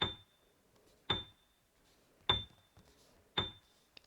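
A ticking sound effect: a sharp click with a short high ping, repeating evenly about once a second, four times.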